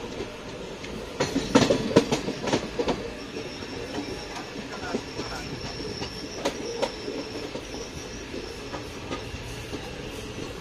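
Passenger train rolling, heard from on board: steady rumble with wheels clacking over rail joints and points, a burst of loud clacks about a second in. Then a thin, high wheel squeal holds for several seconds.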